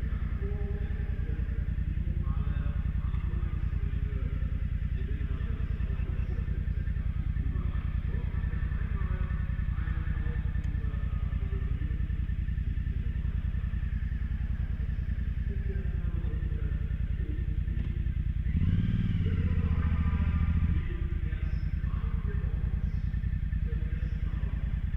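Suzuki V-Strom V-twin motorcycle engine running steadily at low revs, heard from the bike. About three quarters of the way through it is revved once, rising and louder for about two seconds, then drops back.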